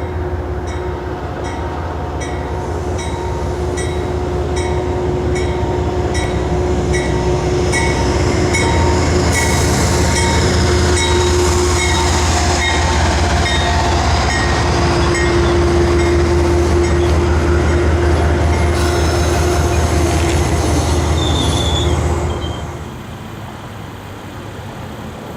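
Train passing close by: a low, steady rumble with a steady squeal over it, growing louder over the first several seconds and dropping off sharply about 22 seconds in.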